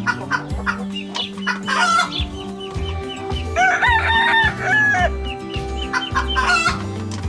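Chickens clucking in short repeated calls, with a rooster crowing once about three and a half seconds in, the crow lasting about a second and a half.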